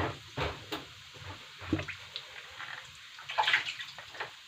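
Garlic frying in butter and olive oil in a pan, crackling and spattering in irregular pops, with a louder cluster of spatters about three seconds in.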